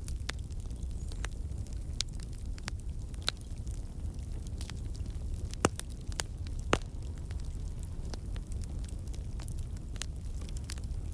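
Campfire burning: a steady low rumble of flames with irregular sharp crackles and pops from the logs, two louder pops about a second apart a little past the middle. The crackling comes from water and sap inside the wood turning to steam and escaping.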